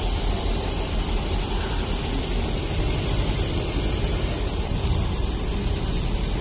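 Classic Volkswagen tour car driving along, its engine running with steady road noise.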